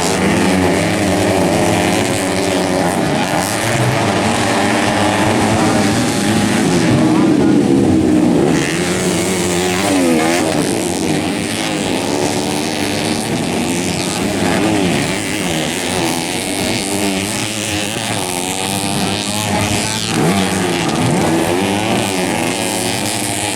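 Several dirt bike engines racing together, revving hard with their pitches rising and falling and overlapping as they accelerate and back off through the track.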